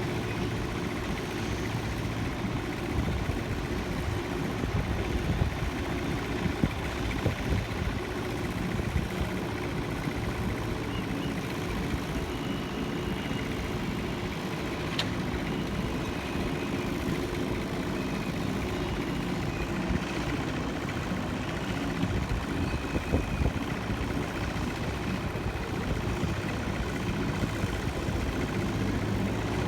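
Steady engine rumble with a low hum, unbroken, with a faint high whine now and then.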